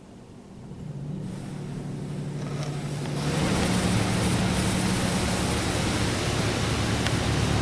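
Touchless car wash high-pressure rinse starting up, heard from inside the car: a pump's steady hum comes in about a second in, and about three seconds in a loud, even hiss of water spray striking the car body joins it and keeps going.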